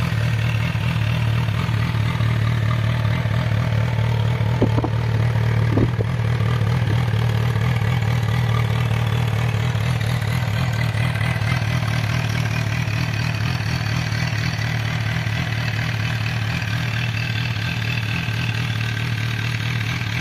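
A naked sport motorcycle's engine idling steadily through twin silencers, with two brief clicks about five and six seconds in.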